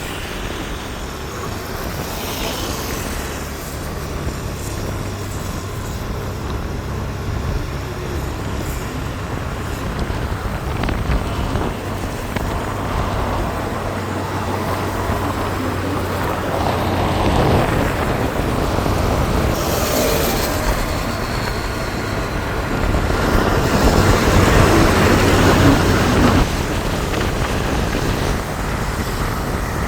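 Road vehicle and traffic noise: a steady low engine hum under a rushing wash that swells louder twice, about halfway through and again toward the end.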